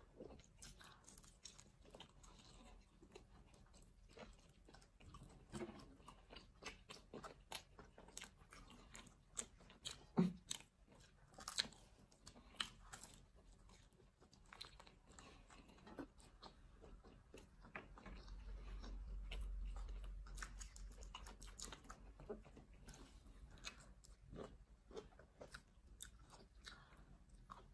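People chewing and biting into pizza: faint, scattered mouth clicks and bites, with a few sharper, louder ones. A soft low rumble comes in about two-thirds of the way through.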